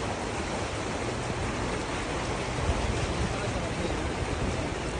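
Steady rushing noise of a heavy downpour and floodwater running through the streets.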